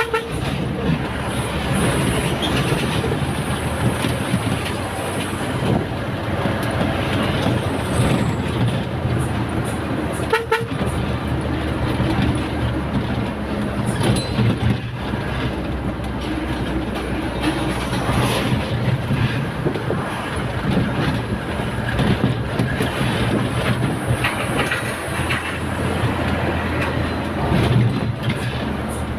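Truck engine and road noise, steady, with a short horn toot about ten seconds in.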